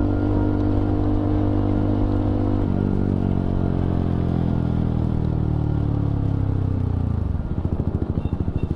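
Motorcycle engine running at a steady speed, then falling in pitch over about four seconds as the bike slows, settling into a pulsing idle near the end.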